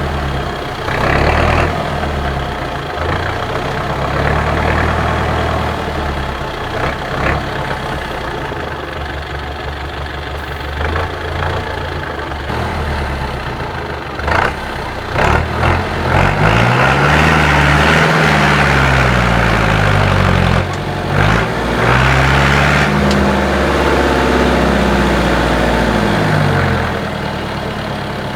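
IFA W50 4x4 truck's diesel engine running under off-road load, revved up and down repeatedly in the second half, with a few sharp knocks along the way.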